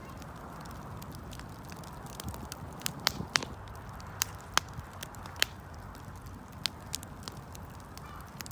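Wood fire crackling: irregular sharp pops and snaps over a steady low hiss from the burning wood, with a cluster of louder pops in the middle.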